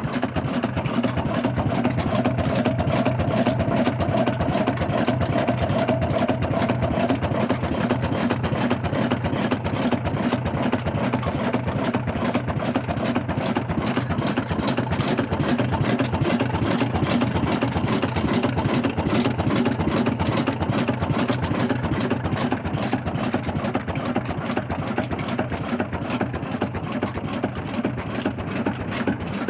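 Old Ruston Hornsby stationary engine running steadily, with an even, rapid beat and a low hum.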